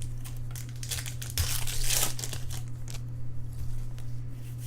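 Plastic foil wrapper of a baseball card pack crinkling as it is torn open and handled, loudest about two seconds in.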